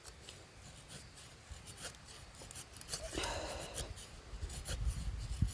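Faint, intermittent scraping of a machete blade against dry wood, raising fine shavings for fire starting. The scraping is clearest about three seconds in.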